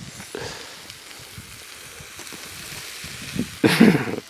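Steady hiss of bacon frying in a pan over a small spirit emergency stove, with a loud burst near the end.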